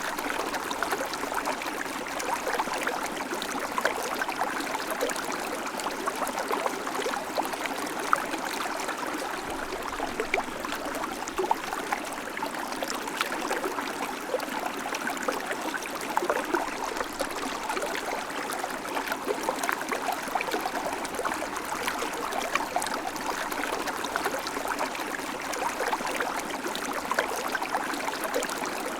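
River water flowing: a steady rush full of small splashes and gurgles.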